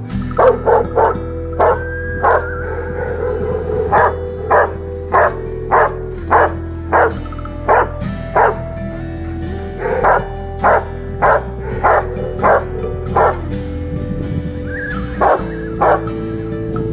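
A Rottweiler barking over and over, about one or two sharp barks a second, with a short break near the end, over background music.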